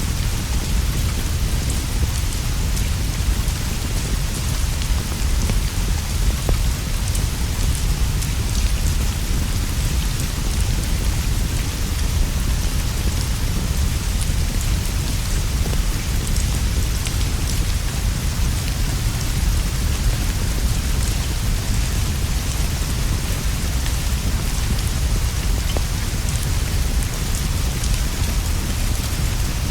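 Steady rain falling on leaves and a straw roof, with a deep continuous rumble underneath and a patter of fine drops.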